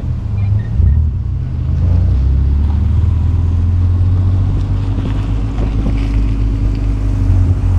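A car's engine running steadily while driving, a loud, steady low hum with wind and road noise over it.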